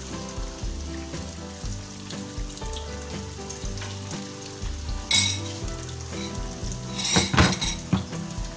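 Red chili balado paste frying in oil in a wok, sizzling steadily. There are a couple of loud clatters of utensils, one about five seconds in and a quick cluster a couple of seconds later.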